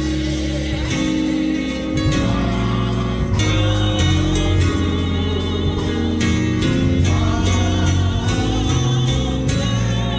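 Gospel music: a choir singing over a live band with bass, guitar and drums.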